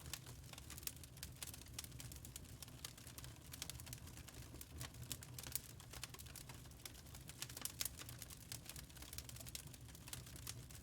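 Wood fire crackling softly: irregular small pops and snaps over a low steady rumble.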